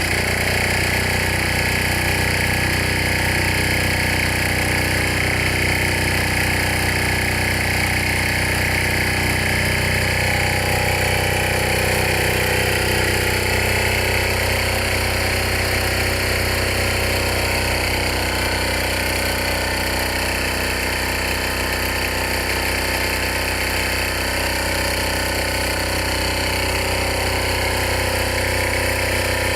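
Old diesel engine running steadily at an even speed.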